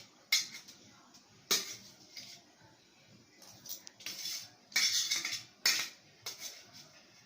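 Metal cutlery clinking and scraping against a dish as food is scooped up, in a series of short clatters and brief scrapes.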